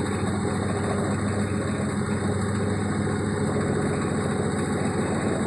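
Atlant 50С102 front-loading washing machine in its 1000 rpm spin cycle: the drum and motor running at speed with a steady low hum and heavy, rapid vibration of the cabinet.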